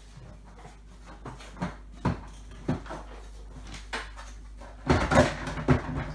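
Hard plastic clicks and knocks from a Nilfisk Aero 26 vacuum cleaner's housing as its parts are handled and pushed back together after a bag change. The clicks come singly at first, with a quick cluster of knocks about five seconds in.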